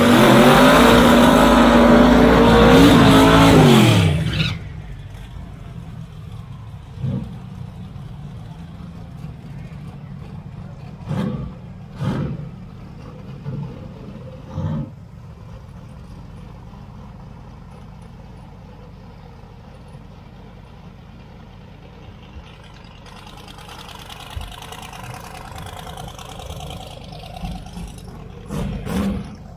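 Drag race cars at full throttle down the strip, a loud engine sound with rising pitch that ends abruptly about four seconds in. After that, quieter track background with a few short loud bursts.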